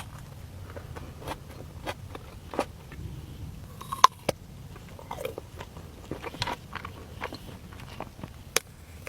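Close-up sounds of a person biting into and chewing pastry: scattered crisp crunches and wet mouth clicks, the sharpest about four seconds in and again near the end.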